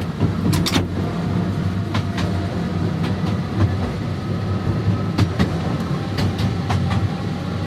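Electric tram running under power in the third controller notch, a steady low running noise from its motors and wheels on the rails. Sharp clicks from the track come now and then, about six in all.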